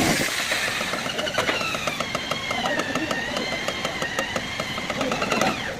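A machine running steadily with a wavering high whine and a rapid, even ticking.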